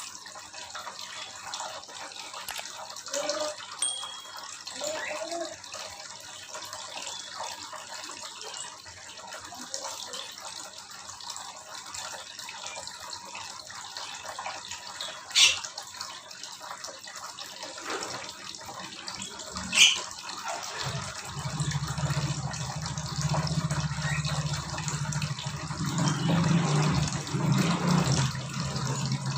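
Aviary ambience: steady running or splashing water with small bird chirps and calls scattered through, two short loud calls about halfway. A low steady hum comes in about two-thirds of the way through.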